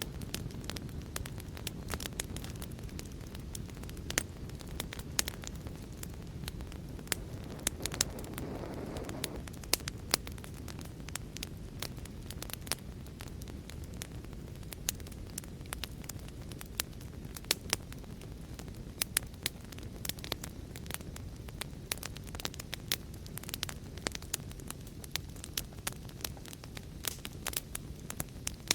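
Fireplace fire crackling: irregular sharp pops and snaps over a steady low rumble, with a brief soft hiss swelling about eight seconds in.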